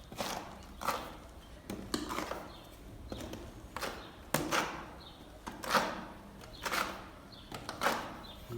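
Putty knife scraping and smoothing sand-mixed joint compound on a wall in repeated short strokes, about one a second.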